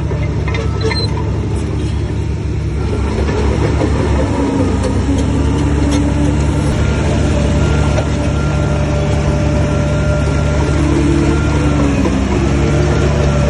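Heavy diesel engine running steadily, getting a little louder about four seconds in.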